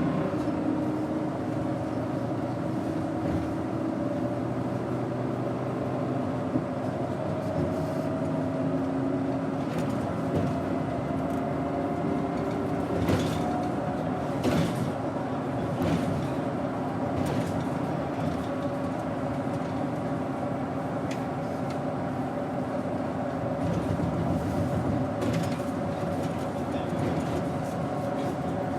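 Daewoo BS110CN low-floor natural-gas bus heard from inside the cabin while under way: its Doosan GE12Ti turbocharged gas engine runs steadily, its pitch drifting slowly up and down, with a few short knocks and rattles from the body in the middle of the stretch.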